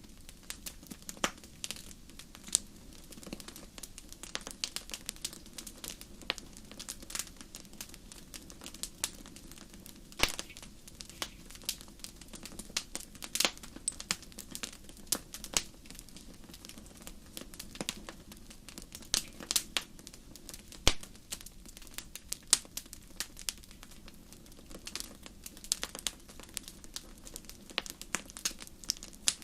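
Wood fire crackling, with irregular sharp pops and snaps of burning wood, several a second, over a steady low rush of the flames.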